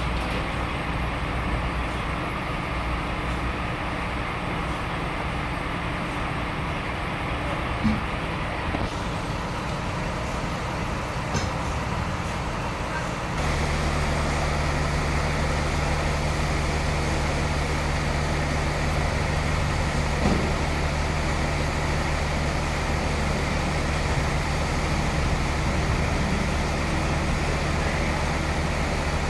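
Sawmill machinery running with a steady mechanical hum; just under halfway through the low hum suddenly gets stronger and a little louder.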